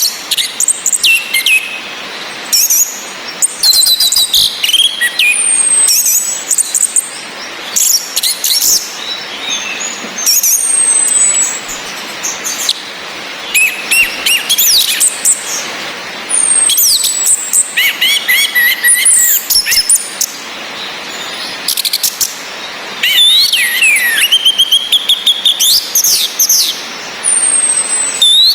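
Orange-headed thrushes, a female calling and a male singing: a high thin whistle that slides down, repeated every few seconds, among quick, varied song phrases. A steady hiss of rain runs underneath.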